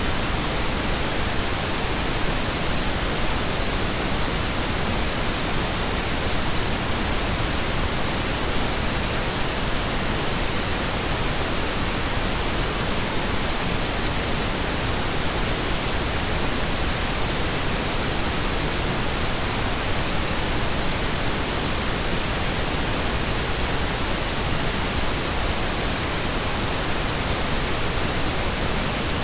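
Pink noise: a steady, even hiss spread across all pitches, unchanging, played as a sleep aid.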